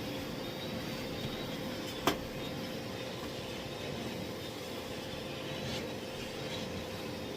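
Miele Blizzard CX1 Cat & Dog Powerline bagless cylinder vacuum cleaner running steadily, a constant whooshing suction noise with a faint hum in it. A single sharp click about two seconds in.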